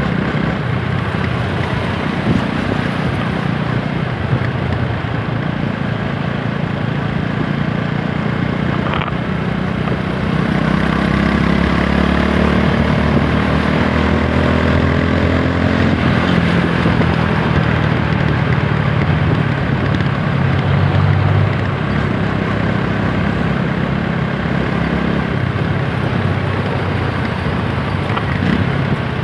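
TVS Apache 160 4V motorcycle's single-cylinder engine running under way. About ten seconds in it gets louder and rises in pitch as the bike accelerates, then eases back after about twenty seconds.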